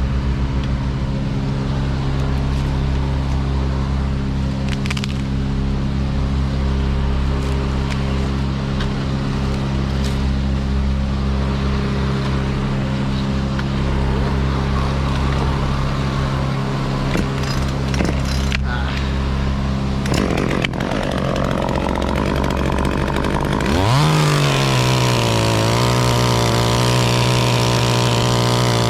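Engine running at a steady speed, with a few sharp knocks. About 24 seconds in, an engine revs up quickly and holds at a higher, steady speed.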